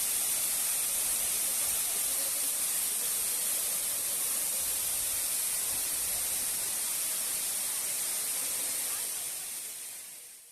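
Steady rushing of a waterfall, fading away near the end.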